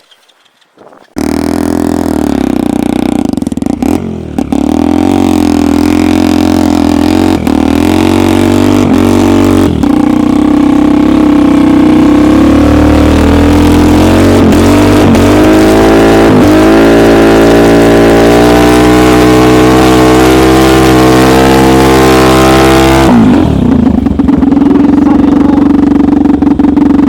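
Homemade snowmobile's engine, close and loud, cutting in suddenly about a second in and revving up and down repeatedly as the machine pulls through deep, heavy wet snow, then dropping to a lower steady note near the end.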